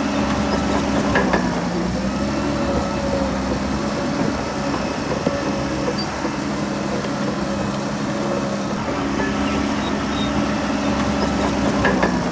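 Heavy diesel engine of earthmoving machinery running steadily, its pitch dipping briefly about a second in and again near the end, with a few sharp clanks.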